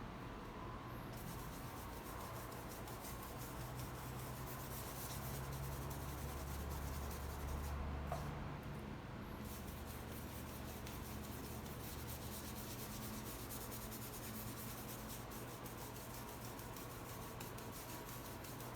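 Faint brush strokes rubbing paint across a painting surface, with a low steady hum underneath.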